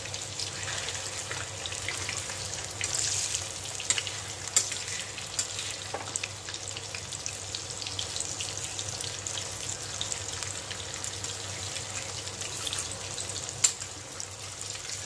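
Marinated chicken pieces frying in hot refined oil in a steel kadhai: a steady sizzle full of small crackles, with a few louder clicks.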